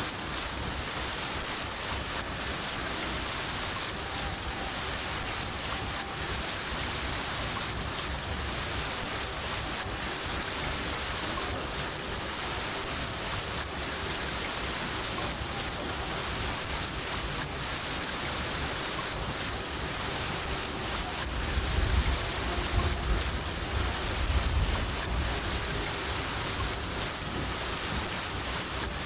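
A cricket chirping in a steady, even rhythm of about three to four high chirps a second over the steady hiss of rain. A low thunder rumble comes in about two-thirds of the way through.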